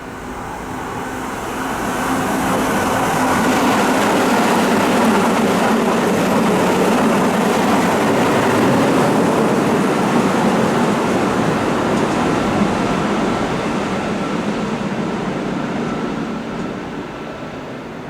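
Keihan electric train running past at the platform, its noise building over the first couple of seconds, holding loud and steady, then fading near the end.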